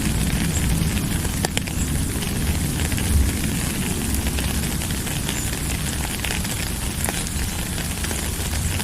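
Steady rain: a dense, even hiss with a low rumble underneath and scattered sharp drop ticks.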